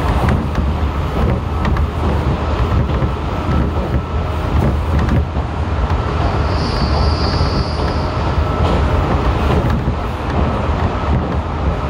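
Interior running noise of a JR Shikoku 7000 series electric train car in motion: a steady low rumble with irregular clicks of the wheels over rail joints and points. About six and a half seconds in, a high thin squeal rises for just over a second, then fades.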